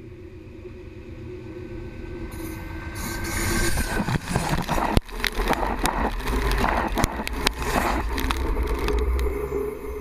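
Train rolling over a camera set between the rails: a low rumble that builds, then a loud run of rapid clanks, clicks and scraping from the wheels and undercarriage passing overhead, easing off near the end.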